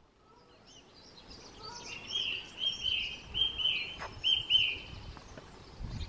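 A bird singing loudly close by: a run of about six repeated, slurred notes, over fainter chirps from other birds. The sound fades in over the first two seconds.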